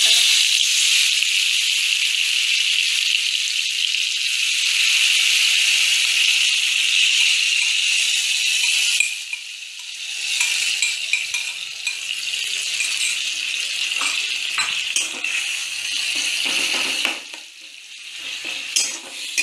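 Grated pineapple sizzling in hot ghee in a metal kadai: a loud, steady hiss that starts suddenly as the fruit goes in. From about halfway, a spoon scrapes and knocks against the pan as more pineapple is added and stirred.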